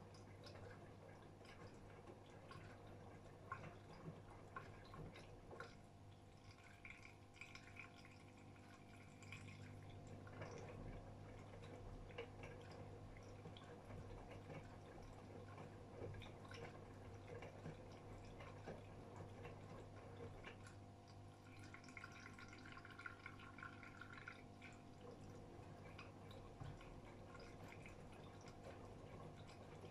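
AEG Öko-Lavamat 76910 washing machine partway through a wash cycle, heard faintly: water sloshing and dripping inside the drum over a low steady hum.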